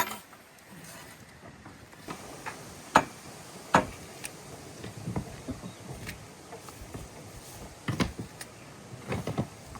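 A handful of sharp, irregular knocks and clunks, the loudest about three seconds in, another just under a second later, and a cluster near the end.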